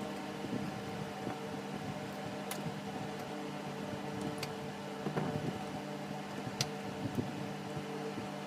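Electric table fan running with a steady hum. A few sharp clicks and a brief rustle about five seconds in, from work at the bench.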